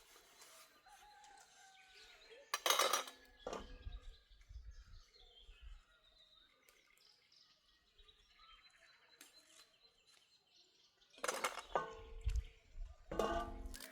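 Birds calling and chirping, with two louder bursts of calls and low thuds, one about three seconds in and another near the end.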